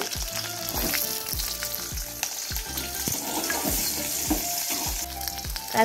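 Chopped shallots sizzling as they fry in hot oil with mustard seeds and chana dal, a steady hiss.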